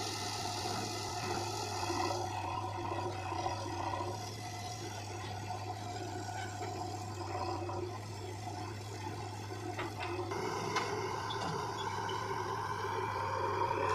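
Diesel engine of heavy earth-moving machinery running steadily, with a few short knocks about ten seconds in.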